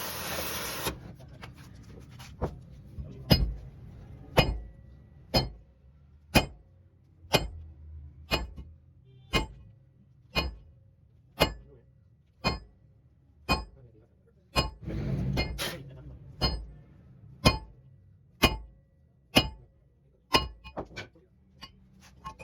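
Hammer striking metal in slow, even blows, about one a second, each with a short ring. A loud hiss cuts off about a second in, and a brief rushing noise comes about fifteen seconds in.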